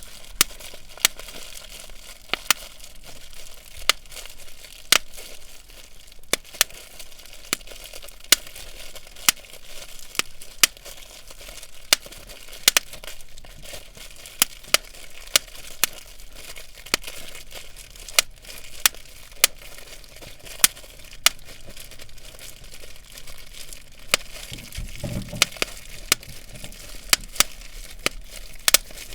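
Bubble wrap being popped cell by cell: sharp single pops, roughly one a second at an uneven pace, over the crinkling of the plastic sheet. A brief dull low thump about 25 seconds in.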